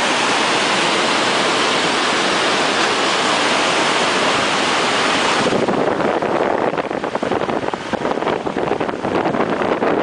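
Loud, steady rush of a fast-flowing mountain river. About halfway through it changes to gusty, uneven wind buffeting the microphone of a moving vehicle.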